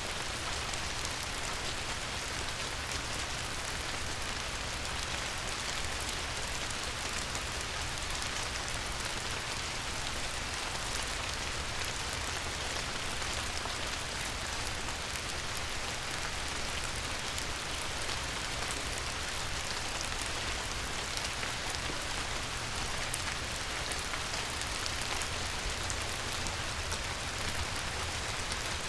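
Light rain falling steadily on a river: an even hiss of many fine drop patters, with a low rumble beneath.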